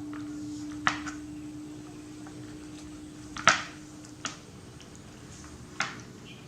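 A pet monkey biting and chewing grapes: a few sharp, wet smacks and clicks, the loudest about three and a half seconds in, over a steady low hum.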